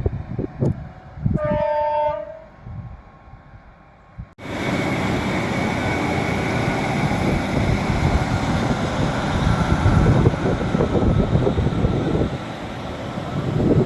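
A train horn sounds one short blast about a second in. After an abrupt cut, a train passes close by with a loud, steady rushing and rumbling that lasts to the end.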